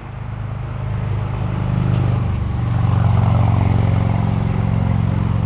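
Honda 400EX's single-cylinder four-stroke engine running through an exhaust with the spark arrester removed, growing louder over the first couple of seconds and then holding steady.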